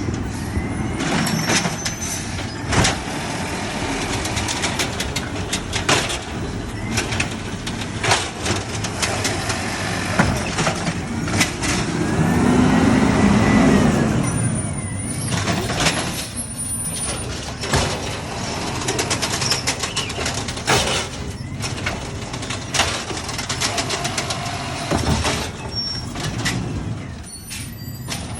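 Garbage truck engine running as it goes by, with many sharp clanks and knocks. It swells to its loudest about halfway through, with a tone that rises and falls.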